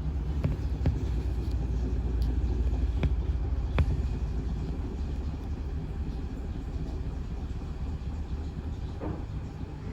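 Sharp ESX159 15 kg washing machine in its spin cycle: a steady low rumble with a few sharp knocks in the first four seconds, easing slightly quieter after that.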